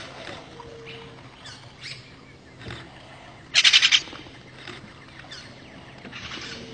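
Wild bird calling: one loud, rapid trill of about half a second, a little over three seconds in, among fainter short chirps.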